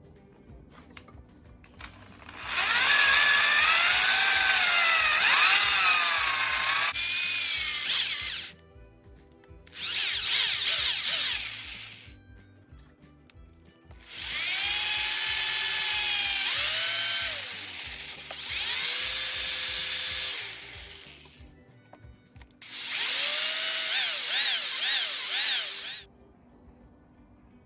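Electric hand drill boring into a broken steel exhaust stud, run in five bursts of a few seconds each. The motor's pitch rises and falls within each burst as the trigger is worked.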